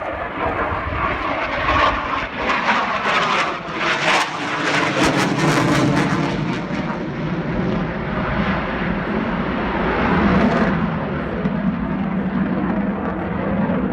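Eurofighter Typhoon's twin Eurojet EJ200 turbofans, loud jet noise as the fighter flies its display. The noise crackles most strongly about four to six seconds in, then settles into a steadier, deeper rumble.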